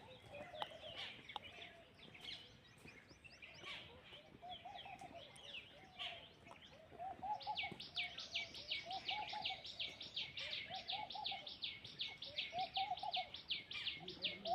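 Wild birds calling. A lower call of a few notes repeats every couple of seconds. About seven seconds in, a high, sharp note joins it, repeated about four times a second.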